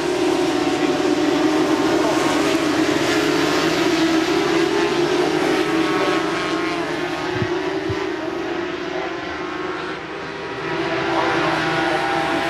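A field of 400 cc supersport racing motorcycles running together on the warm-up lap, many engines overlapping with revs rising and falling.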